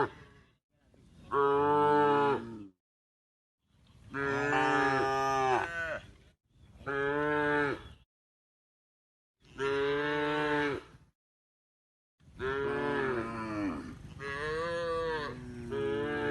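A cow mooing again and again: about five long moos, one after another, with silent gaps between them.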